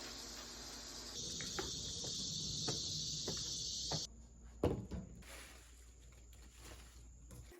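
Crickets and other grass insects chirring steadily and high-pitched, cutting off suddenly about four seconds in. A few soft knocks and a thump follow.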